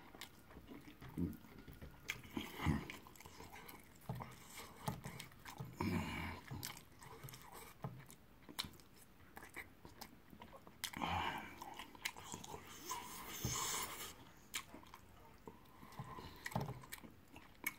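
Close-up mouth sounds of eating yam fufu and egusi soup: chewing, lip smacking and scattered soft clicks, with wet squelches from fingers working the soup.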